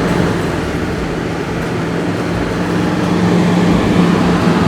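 Vehicle engine running steadily with a constant low hum while driving through deep snow.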